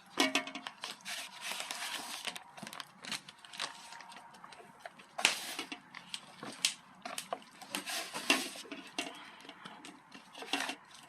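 Irregular clinks and scrapes of a mixing bowl and utensils as chicken is tossed in seasoning sauce.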